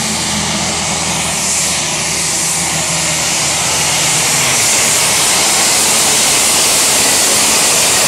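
A pulling tractor's engine running at full power under load down a tractor-pull track, a loud steady din with a strong hiss that grows a little louder about halfway through.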